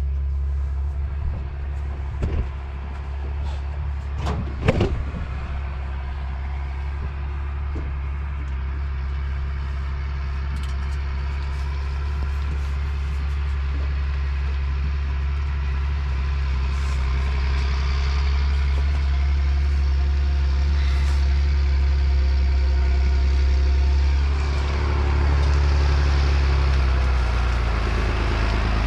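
A vehicle engine running steadily with a low hum, with a few knocks in the first five seconds. The engine note shifts and grows slightly louder about 24 seconds in.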